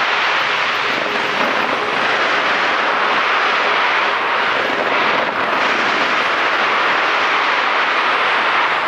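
A large fireworks display going off without pause in the distance, its many bursts and crackles blurring into one loud, steady rushing noise.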